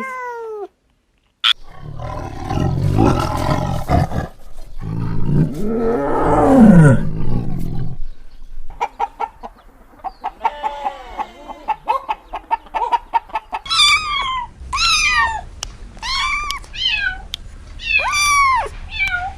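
Geese calling: noisy, hiss-like stretches with a harsh call in the first half, a patch of rapid chattering, then a run of loud repeated honks over the last six seconds.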